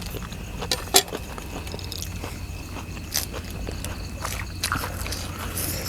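Eating sounds: biting and chewing with scattered short clicks and knocks, over a steady low hum.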